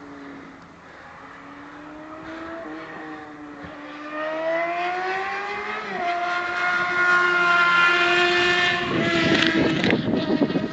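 2005 Yamaha R1's inline-four engine running through Toce Brothers slip-on exhausts with no catalyst: the revs wander, climb about four seconds in and hold high for a few seconds, then break into rough, uneven noise near the end.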